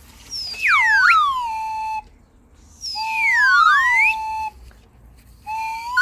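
Whistle-like tones sliding up and down in pitch, in three bursts of about a second and a half each. In the middle burst one tone rises while another falls, so they cross. Each burst starts and stops cleanly.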